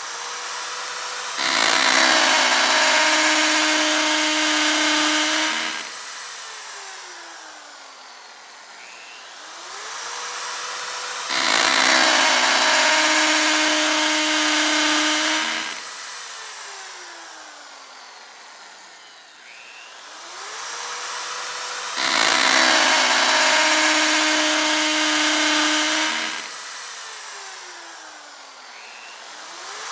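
Electric drill repeatedly spinning up, drilling under load for about four seconds with a loud grinding whir, then winding down with a falling whine; the cycle comes three times, about every ten seconds.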